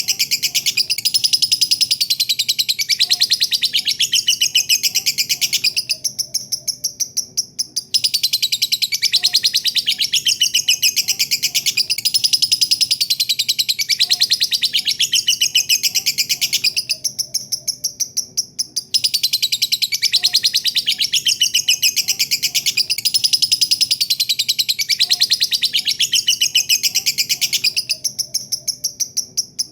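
Lovebird singing a long 'ngekek': a rapid, high-pitched chattering trill that runs on for about ten seconds at a time, broken three times by quieter stretches of about two seconds.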